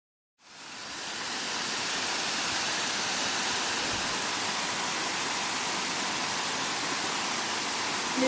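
A waterfall's water rushing down, a steady even noise that fades in from silence about half a second in and holds level after about two seconds.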